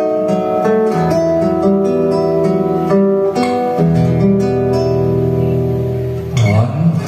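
Acoustic guitar playing a plucked, melodic instrumental intro in sustained notes, with a brief swooping glide in pitch near the end.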